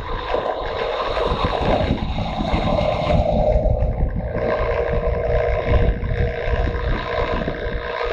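Motorcycle riding at speed: the engine runs steadily under a heavy rumble of wind buffeting the microphone.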